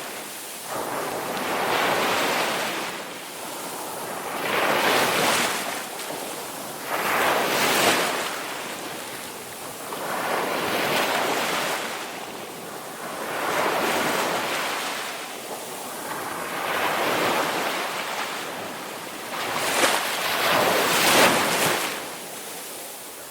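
Ocean waves washing onto a shore and drawing back, the surf swelling and fading every two to three seconds.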